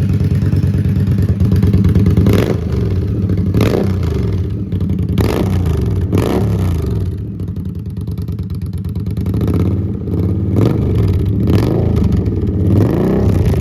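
2017 Indian Scout's V-twin running loud through short shorty mufflers, blipped up several times in quick revs, with slower rises and falls in engine speed later on.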